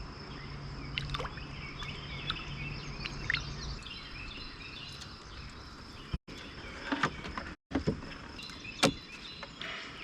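Scattered knocks and clicks of a small channel catfish being worked off a hook that is jammed in its jaw, aboard a canoe; the sharpest click comes near the end. Under it runs a steady high insect drone with birds chirping.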